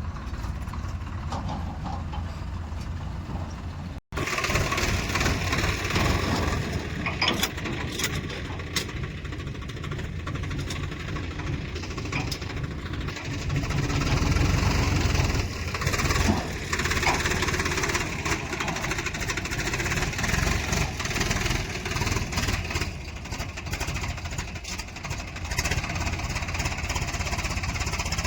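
Diesel engines of heavy machinery running at a mud-loading site: a backhoe loader working with tractors and tipper trucks, with a few sharp clanks. The sound drops out for an instant about four seconds in.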